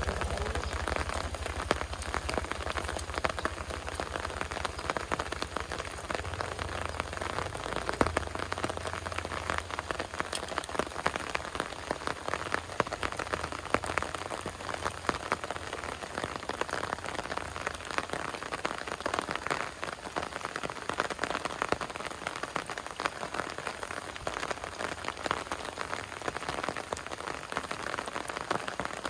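Heavy rain falling steadily, a dense patter of drops hitting surfaces. A low rumble sits under it for the first several seconds, then fades out.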